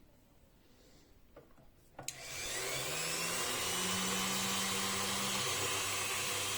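Dremel rotary tool switched on about two seconds in with a click, spinning up with a rising whine and then running steadily at high speed while polishing a pistol part with metal polish.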